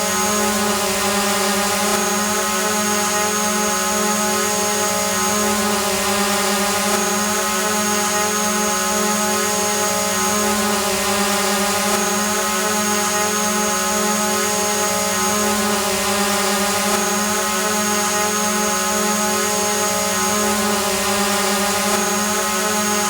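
Drone hovering: its spinning propellers make a steady, even hum over a constant hiss, with a faint high whistle that comes and goes.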